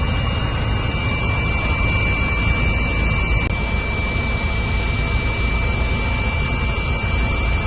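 Steady helicopter cabin noise: engine and rotor drone heavy in the low end, with a thin, steady high whine over it. One of two whine tones stops about three and a half seconds in, with a brief dip in loudness.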